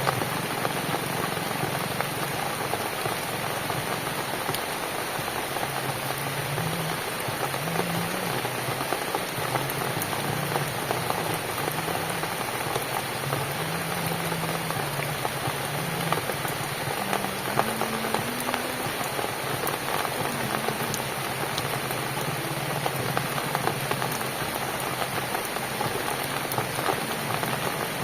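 Steady rain falling on a cabin, an even patter with fine drop ticks throughout. A faint low wavering tone sounds underneath through much of it.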